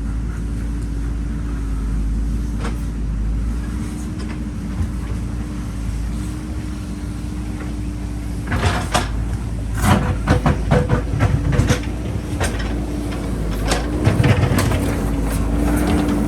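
JCB backhoe loader's diesel engine running steadily while the bucket digs into the hillside. From about halfway, a run of knocks and clattering as the bucket scrapes and strikes rock and soil.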